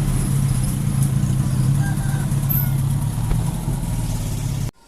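An engine running steadily with a low drone, cut off suddenly near the end.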